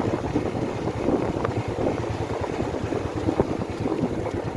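Wind buffeting the microphone during a motorcycle ride, over a steady low rumble of the moving bike.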